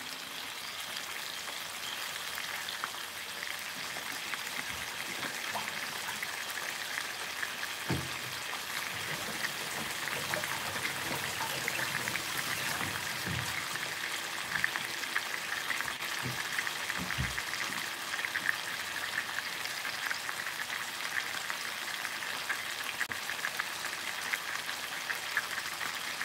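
Chicken pieces frying in a soy-sauce liquid in a frying pan, a steady crackling sizzle, with a few soft low knocks.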